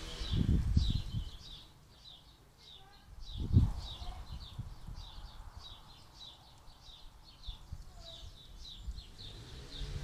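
A small bird chirping over and over in short high notes, a few a second, with wind buffeting the microphone in the first second and again, loudest, about three and a half seconds in.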